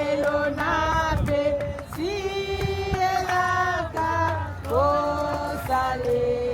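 Worship song with music: voices singing long held notes that glide between pitches.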